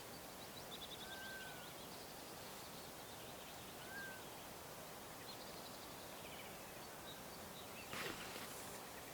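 Faint forest ambience with several small birds calling and singing: short whistled notes and quick high trills over a steady hiss. About eight seconds in there is a brief, louder noise, the loudest moment.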